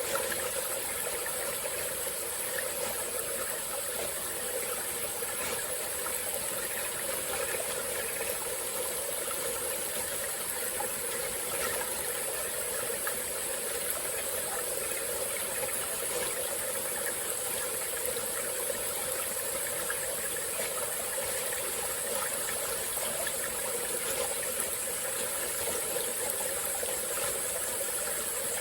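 Small tropical forest stream flowing steadily, with a continuous high-pitched insect drone over the water sound.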